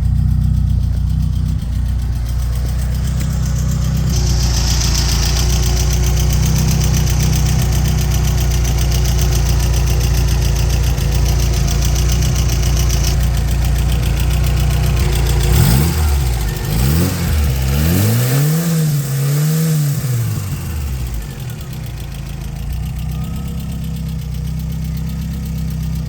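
Ford Escort XR3i's four-cylinder petrol engine idling steadily, then revved several times in quick rises and falls about two-thirds of the way through before dropping back to idle.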